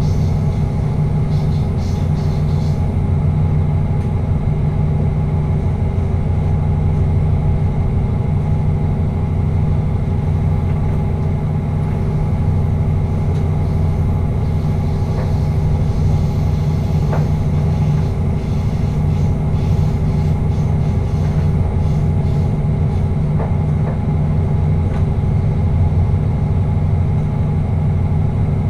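Passenger train running steadily at speed, heard from inside the driver's cab: a constant low droning rumble with a few faint ticks.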